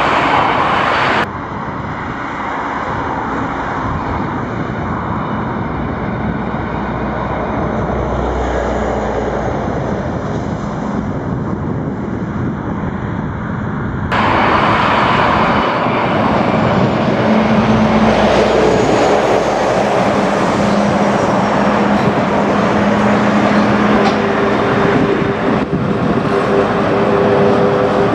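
NS VIRM double-deck electric train running past, a steady loud rush with a low hum joining in the second half. The sound changes abruptly about a second in and again halfway through.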